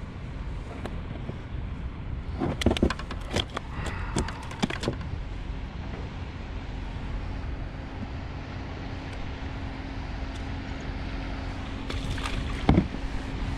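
Wind buffeting the microphone as a steady low rumble, with a quick run of clicks and knocks a few seconds in and one louder knock near the end.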